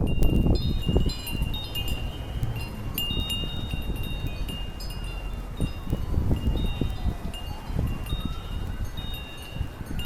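Metal wind chimes ringing irregularly as gusts of storm wind swing them, with wind rumbling on the microphone, strongest at the start.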